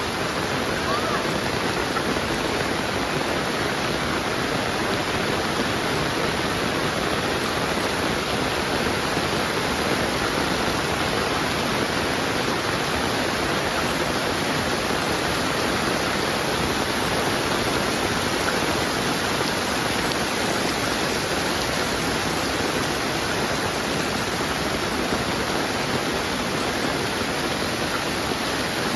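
Heavy rain falling steadily, a dense, even hiss of water with no breaks or distinct drops standing out.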